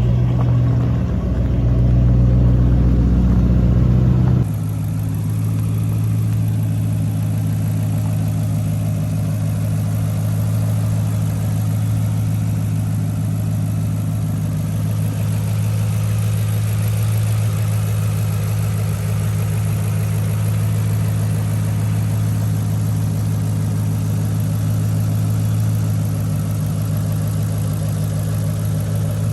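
2010 Ford Mustang GT's 4.6-litre three-valve V8 idling steadily while it warms up after a cold start. About four seconds in the sound changes abruptly and settles slightly quieter.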